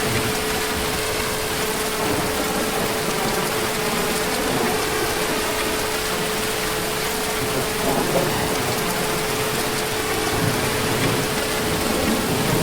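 Heavy rain falling steadily, with a few soft low rumbles of distant thunder late on and a thin steady tone underneath.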